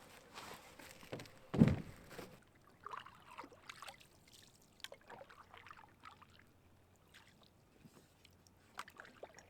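Canoe on the water, with one loud hollow knock against the hull about a second and a half in. Small splashes, drips and light clicks follow.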